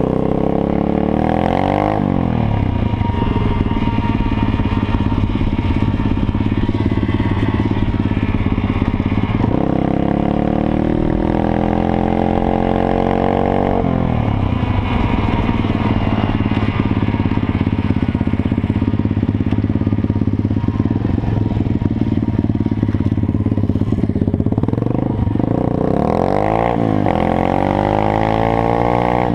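Moped engine running under way, its revs climbing and dropping several times, with quick up-and-down swings near the end.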